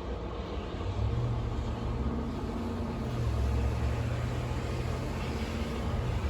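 Snowstorm wind blowing steadily, a rushing hiss over a deep rumble, with a low steady hum that comes in about a second in and fades near the end.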